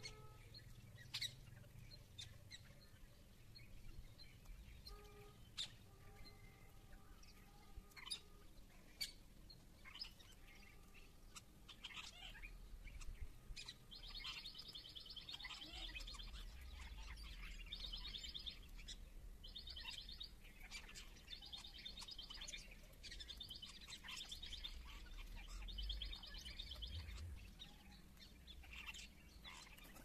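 Faint wild bird calls: scattered short chirps, then a run of about six high trills, each lasting under a second, repeated one after another for over ten seconds.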